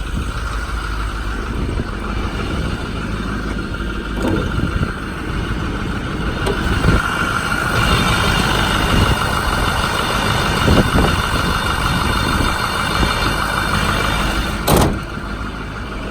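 Freshly rebuilt 6.4L Power Stroke V8 diesel of a 2008 Ford F-550 idling smoothly. Over it come a few short knocks and one sharp, loud clack about fifteen seconds in, as the hood is worked open.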